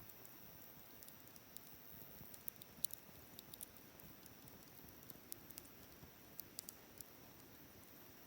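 Wood fire crackling faintly: scattered sharp pops and ticks at irregular intervals over a low hiss, the loudest pop about three seconds in.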